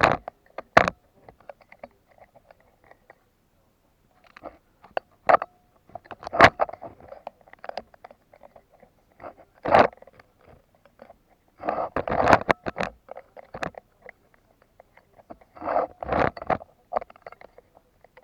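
Irregular bursts of crackling and scraping right against the microphone, about seven clusters of clicks and scrapes each lasting roughly a second, with near silence between them.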